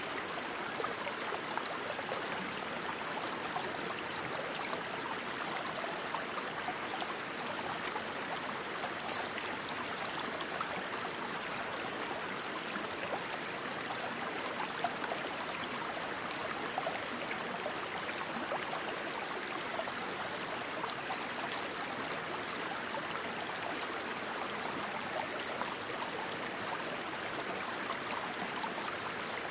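Rushing stream water running steadily. Over it come short, high-pitched chirps, roughly two a second, and two brief rapid trills.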